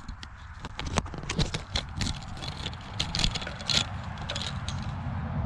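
Footsteps crunching irregularly over the forest floor, a run of short crackling crunches over a low rumble.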